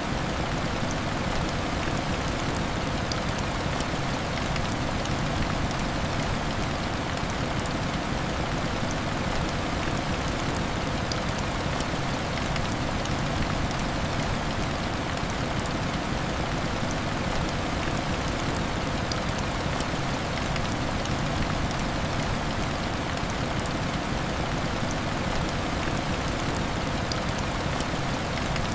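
Heavy rain hitting window glass: an even, steady hiss of rain with many small sharp ticks of individual drops.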